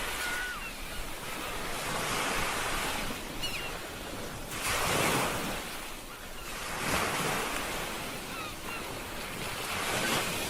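Ocean waves washing on a shore, the surf swelling and falling back every two seconds or so, with the loudest surge about halfway through. A few faint short chirps can be heard over the surf.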